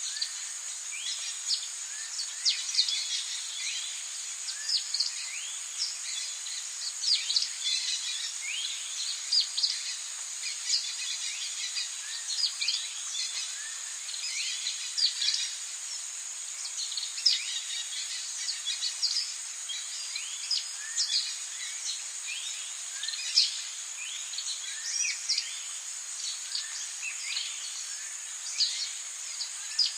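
Rainforest ambience: a steady high-pitched insect drone under a dense chorus of short, quickly falling bird chirps.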